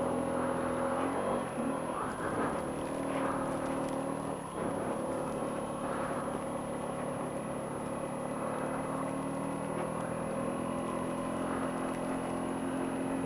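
2007 Honda Ruckus scooter's 49cc four-stroke single-cylinder engine running at a steady, moderate pace while riding in snow, easing off briefly about four and a half seconds in.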